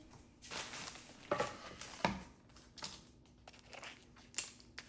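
Light handling noises: a series of short clicks and rustles, about one every second or less, as objects are picked up and set down.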